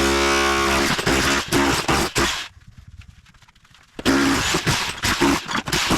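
Rotary hammer breaking up floor tile and cement board: a falling motor whine in the first second, then rough chipping and breaking strokes. It stops for about a second and a half in the middle and then starts again.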